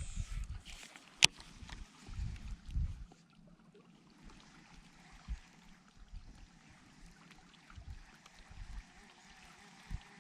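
Water lapping softly against a kayak hull. About a second in there is one sharp knock, and a few low thumps come in the first three seconds.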